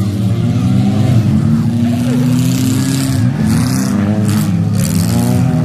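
Engines of several demolition derby cars revving at once, their pitches rising and falling over one another.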